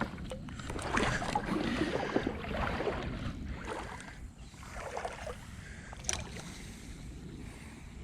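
Creek water splashing and moving, with a few short knocks and a sharp click about six seconds in.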